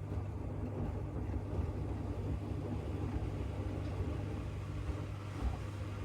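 AEG LR8FL160EX front-loading washing machine in its wash phase: a steady low motor hum with the irregular rumble of the drum turning wet bath mats through the water.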